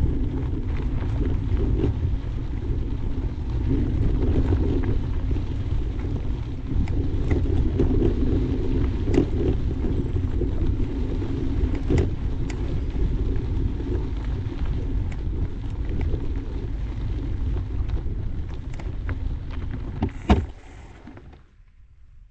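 Steady rumble of wind and tyre noise from riding a mountain bike on a dirt trail, with occasional sharp knocks. A loud knock comes near the end, then the noise drops away abruptly.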